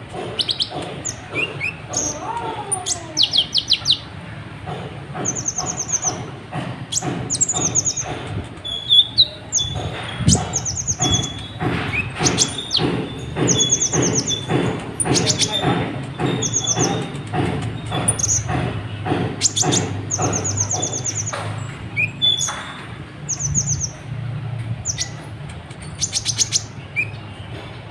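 Kolibri ninja sunbird singing without pause: short, very high, fast-trilled phrases repeated over and over, mixed with sharp chips.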